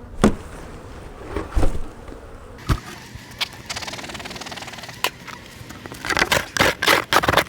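A few sharp knocks, then a quick run of rasping scrapes: bees being knocked off and a hive tool scraping burr comb away.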